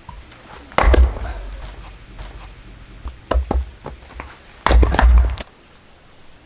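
Axe blows on firewood: a heavy strike about a second in, two lighter knocks around three and a half seconds, and a longer, loud strike near five seconds.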